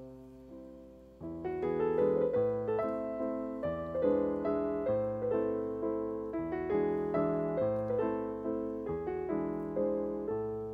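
Background piano music: struck notes that ring and fade, quiet at first and growing fuller about a second in.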